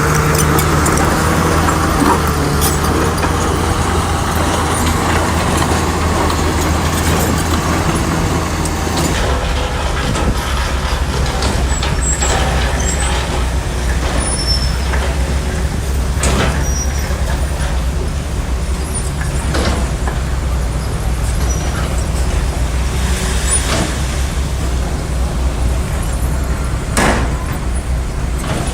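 Shantui bulldozer's diesel engine running steadily, its tone changing about nine seconds in, with a few short sharp clanks or hisses over it.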